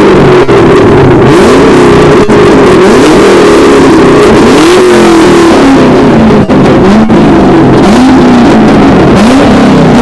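Car engine revved over and over in quick throttle blips, about one a second, each rising and falling in pitch. Very loud.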